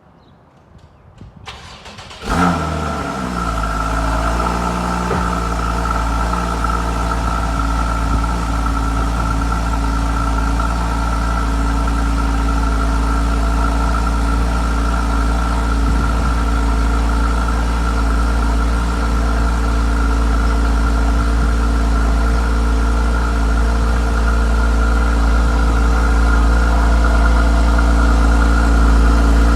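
Car engine started from cold: a brief crank, then it catches about two seconds in, flares up and settles within a few seconds into a steady idle.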